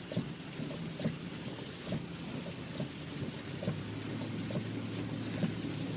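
Steady rain falling on a car, with scattered drop ticks. A low steady hum comes in about three and a half seconds in.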